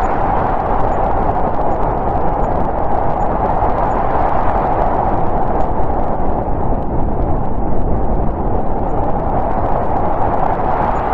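Snowstorm wind blowing steadily, a rushing hiss with a deep rumble beneath it, swelling and easing a little.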